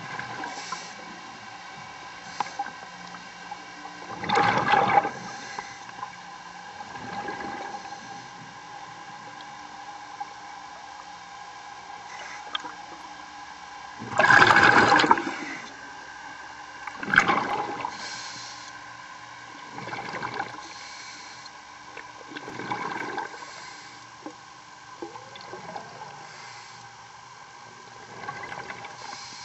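Underwater bubbling in surges every few seconds, the loudest about halfway through, over a steady hum. The surges fit a scuba diver's exhaled bubbles leaving the regulator.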